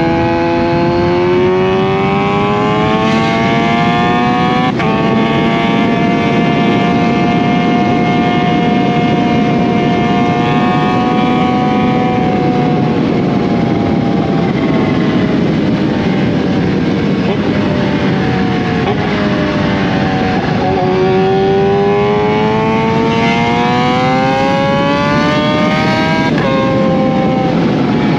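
2020 Kawasaki Z H2's supercharged inline-four running through an SC Project CRT exhaust, accelerating hard with a rising engine note. There is an upshift about five seconds in, the revs hold and then slowly fall off through the middle, drop sharply around twenty seconds in, then climb again to another upshift near the end. Wind rush is steady underneath.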